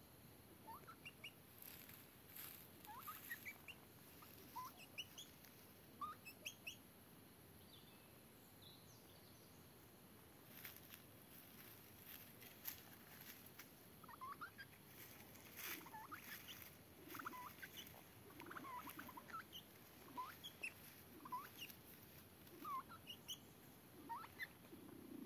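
Faint, short rising bird chirps scattered irregularly, with a few soft clicks or rustles between them.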